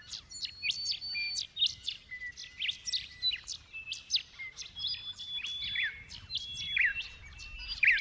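Several songbirds calling at once: many quick, high chirps mixed with short held whistled notes, overlapping throughout.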